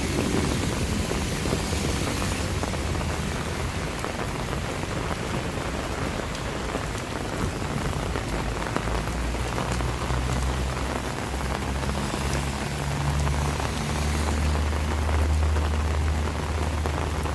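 Steady rain falling on surfaces, with a low rumble building from about halfway through and loudest near the end.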